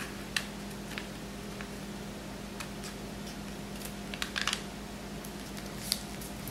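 Square sheet of origami paper being folded in half and creased on a table: a few short, faint paper crackles and taps, a small cluster of them a little past the middle, over a steady low hum.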